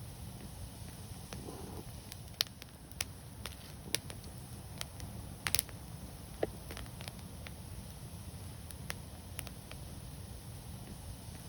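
Fire crackling: sharp irregular pops and snaps, roughly one every second or so, over a steady low rumble, with the strongest pop about halfway through.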